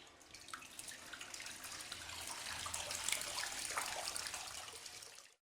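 Running, splashing water, a hissing wash with many small drips and splashes. It swells from faint to louder, then eases and cuts off abruptly near the end.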